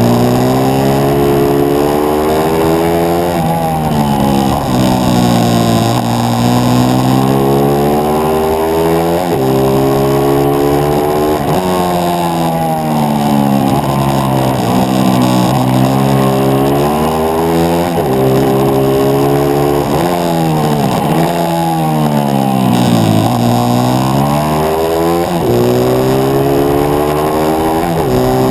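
Single-cylinder four-stroke 140cc pit bike engine heard on board at race pace, revving up and dropping back over and over as the bike accelerates out of corners and backs off into the next.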